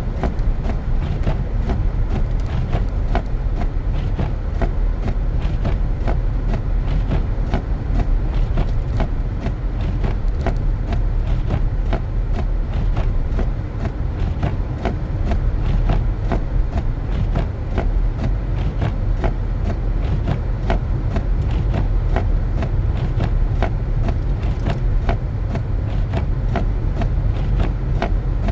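Car driving on a snow-covered road: a steady low rumble of tyres and engine, with frequent small clicks and crackles throughout.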